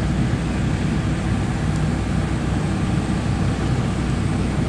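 Steady low rumble and hum of a diesel-hauled passenger train standing at a station with its engines idling.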